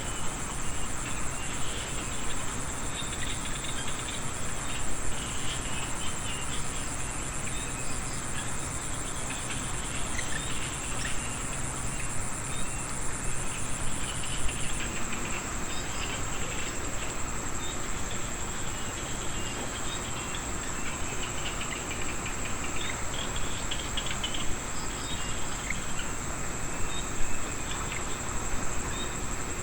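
Chorus of frogs and insects after rain: steady high-pitched insect trills, one of which cuts off about halfway through, over many overlapping short frog calls.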